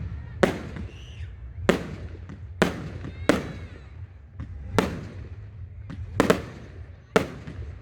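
Firework display: aerial shells bursting with sharp bangs, about seven of them at irregular intervals of roughly a second, each trailing off in a short echo.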